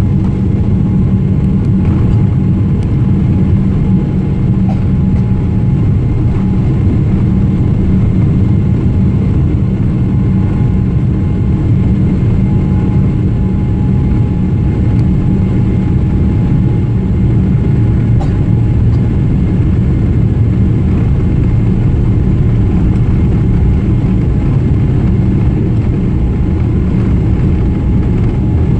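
Steady low rumble of a Boeing 777 airliner's engines and airflow heard from inside the cabin, with a faint steady whine above it.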